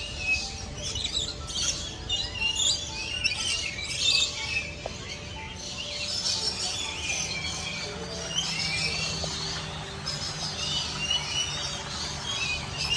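Many birds chirping and tweeting in quick, overlapping calls, with background music underneath.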